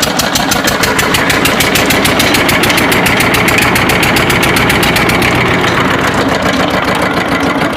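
Single-cylinder 8 hp diesel engine of a 3-inch water pump running steadily, with the rapid, even knock of its firing strokes.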